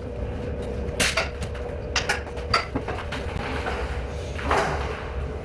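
A few scattered sharp knocks and clatters of tools and materials being handled on an interior construction site, over a steady low background hum.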